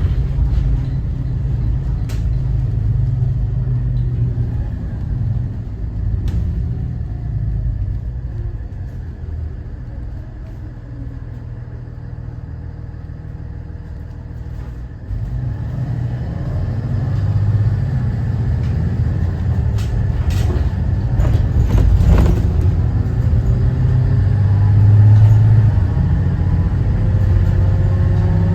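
Cummins ISB 6.7 diesel engine of a 2014 Thomas Saf-T-Liner C2 school bus running while the bus drives, with a low rumble. The engine eases off for several seconds midway, then rises in pitch and builds again as the bus accelerates, with a few knocks and rattles about twenty seconds in.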